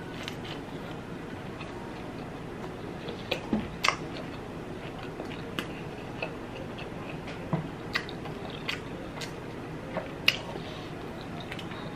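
A person chewing food close to the microphone, with scattered short sharp clicks and smacks at irregular intervals, the loudest around four seconds in.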